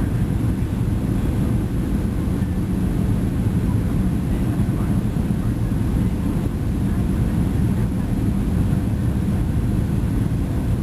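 Steady cabin noise of a Boeing 737 airliner on approach: a loud, even low rumble of engines and airflow, with a thin steady tone above it.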